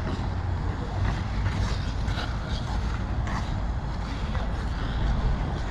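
Ice skate blades scraping and cutting across rink ice in irregular short strokes, over a steady low rumble.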